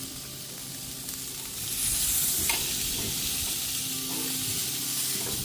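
Steaks sizzling on a grill, a steady hiss that swells about two seconds in, with a single click a little after that.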